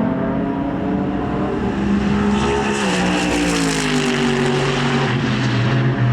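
Racing car engine passing by at speed, loudest about three seconds in, its note sliding down in pitch as it goes past.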